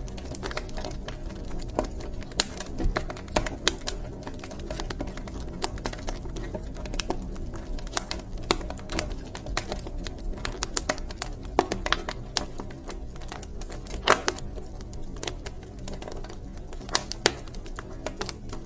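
Wood fire crackling in a fireplace: irregular sharp pops and snaps, a few louder ones, over a low steady rumble of the burning.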